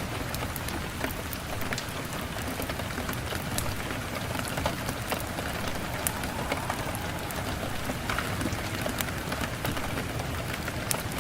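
Steady rain falling, an even hiss with many scattered sharp ticks of individual drops.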